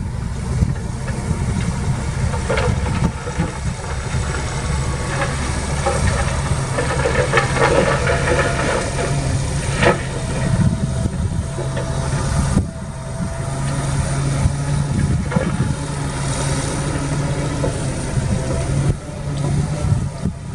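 Heavy diesel engine of earthmoving equipment running steadily, with a couple of sharp knocks and a brief drop in level partway through.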